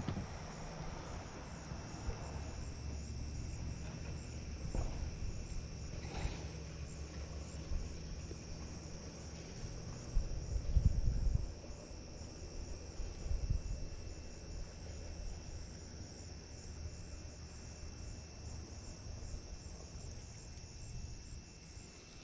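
Insects calling in a steady, continuous high-pitched chorus with an even pulse. Wind rumbles on the microphone underneath, swelling about eleven seconds in.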